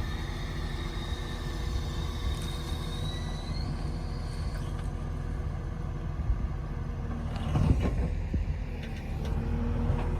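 Heavy earthmoving machine's diesel engine running steadily with a low rumble, and a faint high whine that rises slightly a few seconds in.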